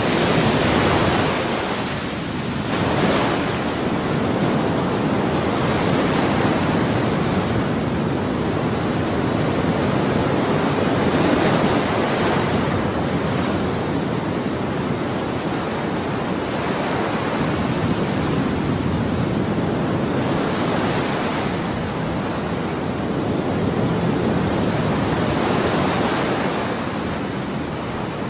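Ocean waves breaking and washing on a shore: a continuous rushing surf with swells that rise and fall every few seconds.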